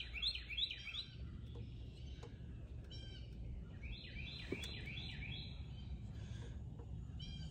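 A songbird singing: two phrases of quick, repeated, down-slurred whistled notes, one at the start and one about four seconds in, with a short high trill between them, over a low steady rumble.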